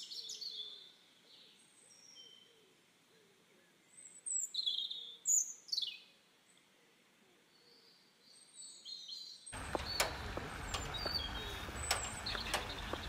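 Small birds chirping and calling, with a few loud, quick high chirps near the middle. About three quarters of the way through, a steady outdoor background noise with scattered faint clicks cuts in.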